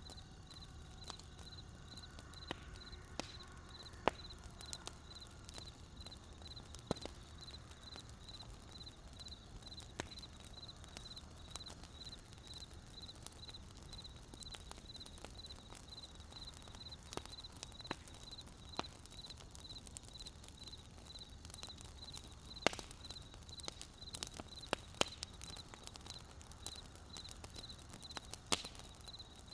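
Burning wood crackling: irregular sharp pops and snaps over a low rumble, with a few louder pops about four seconds in and again in the last third. A faint high chirp repeats evenly about twice a second behind it.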